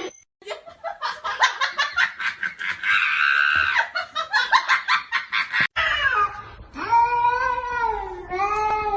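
A person laughing hard, then, after an abrupt break, a cat meowing in long drawn-out calls that bend in pitch.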